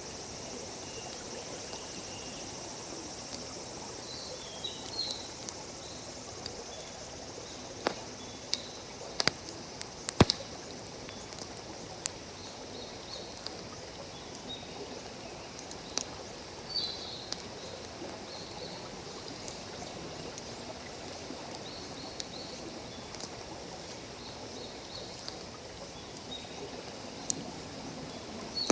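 Wood campfire crackling, with scattered sharp pops, over the steady rush of a stream, and a few short bird chirps.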